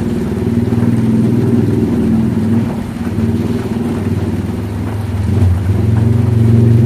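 An engine running steadily, its pitch and level rising slightly near the end, over a fainter hiss of rain.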